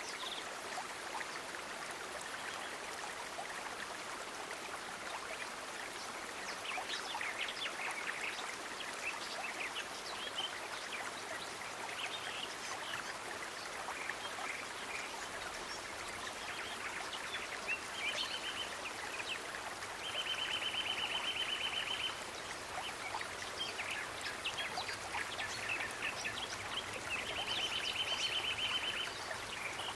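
Steady running stream water with birds chirping. A high, fast, even trill sounds three times, each lasting one to two seconds.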